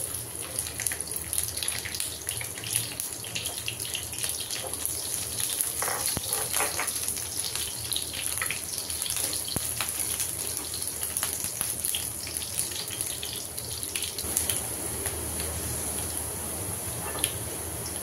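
Sliced shallots, garlic and ginger sizzling in hot oil in a nonstick frying pan, a steady high hiss full of small crackles and pops as they are stirred with a silicone spatula.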